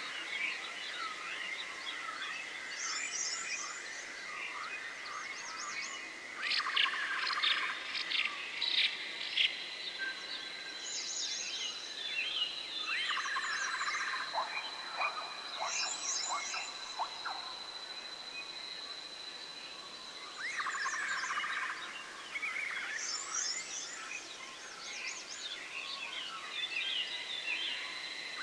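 Forest ambience: a steady high-pitched insect drone, with scattered bird chirps and bouts of animal calls that come back every several seconds.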